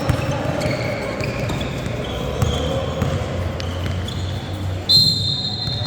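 Sneakers squeaking on a gym court with a ball bouncing: a string of short high squeaks at shifting pitches, the longest and loudest near the end, over dull thuds.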